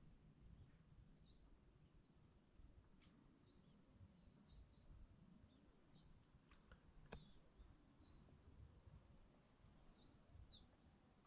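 Near silence with faint, scattered high chirps of small birds calling, and one faint click about seven seconds in.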